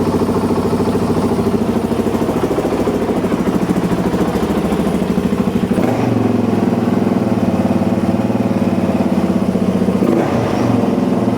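Suzuki DR-Z single-cylinder four-stroke engine running steadily at idle while warming up after a carburettor mixture-screw adjustment, its tone shifting slightly about six seconds in. The idle still hangs a little, which the owner takes for a mixture still a fraction too lean.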